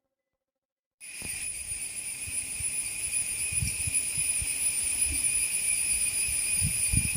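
About a second of silence, then a steady high-pitched ringing drone starts, joined by irregular low rumbles.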